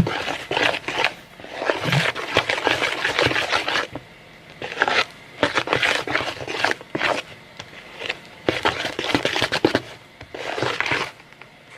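Glue-based slime mixture being stirred in a bowl, irregular scraping and crackling strokes with short pauses between them.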